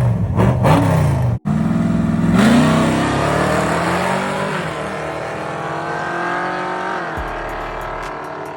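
Car engine revved in quick blips, then after a sudden break a car accelerating hard, its engine pitch climbing steadily before levelling off and fading.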